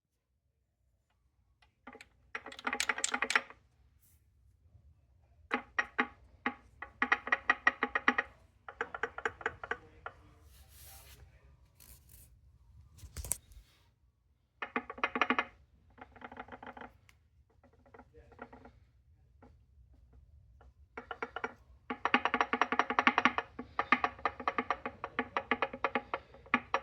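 Fast, rapid knocking from inside a Getrag 360 gearbox with its top cover off, coming in bursts of one to several seconds with short pauses between and a longer run near the end.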